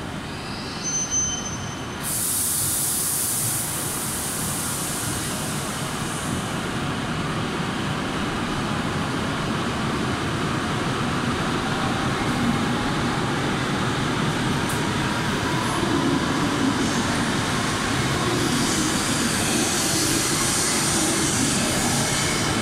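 E7 series Shinkansen pulling out of the station. A brief high tone comes about a second in, then a sudden loud hiss lasting a few seconds. After that the train's rolling rumble builds steadily louder as it picks up speed past the platform.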